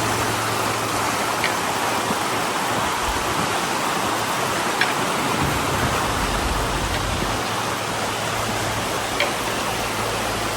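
Floodwater rushing steadily out of road culverts that have just been unclogged and are flowing freely again, with a few faint short high chirps over the rush.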